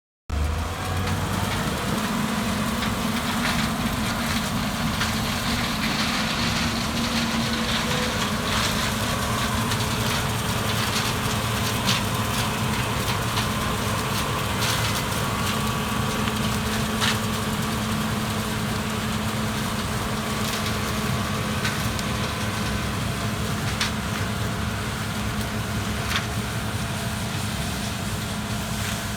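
A large engine running steadily with a low, even hum and a few faint clicks, starting abruptly at the beginning.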